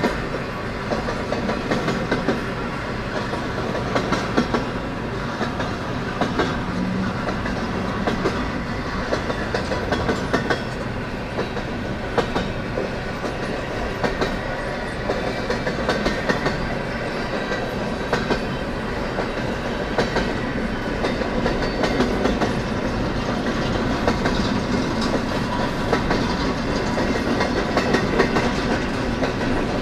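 Freight cars of a Canadian National freight train rolling past, their wheels clicking and clattering on the rails over a continuous rumble.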